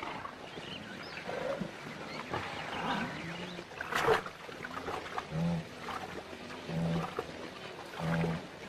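Wild animal calls, short pitched growls repeating about every second and a half in the second half, with a sharp knock about four seconds in.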